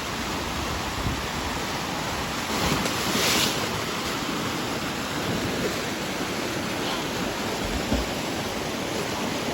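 Steady rush of creek water pouring down the granite face of a natural rock water slide, with a brief louder surge of spray about three seconds in.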